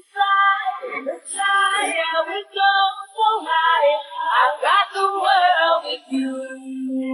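A high female voice singing a quick melodic phrase over music, ending on a held lower note.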